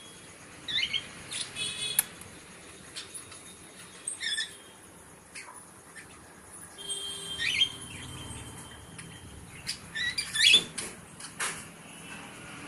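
Small birds giving short, high chirps every second or two, with scattered clicks and rustles in between; the loudest burst of chirps comes near the end.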